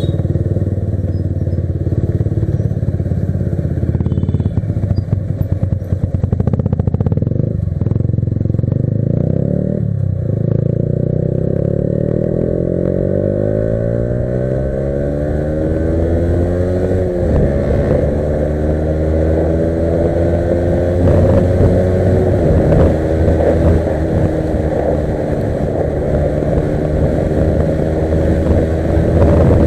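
Yamaha R15 V3's single-cylinder engine under way, its pitch climbing steadily as the bike accelerates through a gear. Midway it drops sharply at an upshift, then climbs again and settles to a steady cruise.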